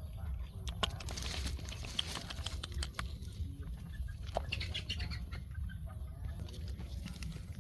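Rustling and crackling of dry litter, with many scattered sharp clicks over a steady low rumble.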